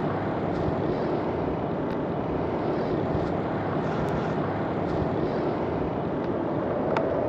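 Slowed-down soundtrack of slow-motion phone footage: a steady, deep blur of outdoor noise, with no distinct sounds standing out.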